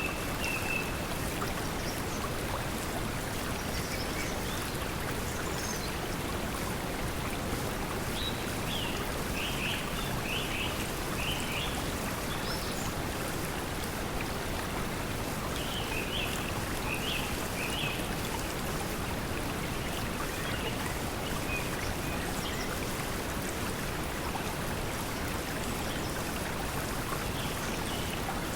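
Steady pink noise mixed with flowing water, even and unbroken, with short runs of bird chirps twice near the middle.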